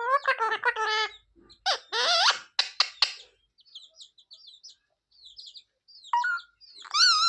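Pet green parrot vocalizing: several loud calls that waver in pitch, with softer short chirps and squeaks in between and a loud call starting near the end.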